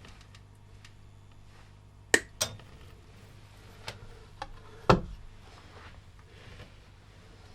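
Metal parts or tools clinking and knocking as they are handled: five sharp strikes, three of them loud (about two seconds in, just after that, and about five seconds in), over a steady low hum.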